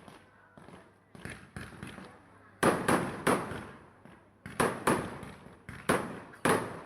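Fireworks going off: about a dozen sharp bangs at irregular intervals, some in quick pairs, each trailing off in an echo.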